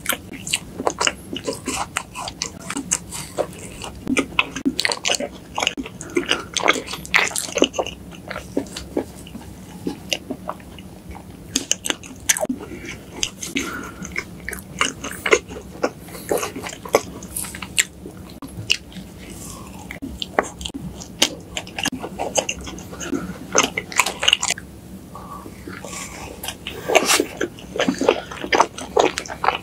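Close-miked chewing and biting of soft layered crepe cake by two eaters, a dense run of small sharp mouth clicks that thins out in the middle and picks up again near the end.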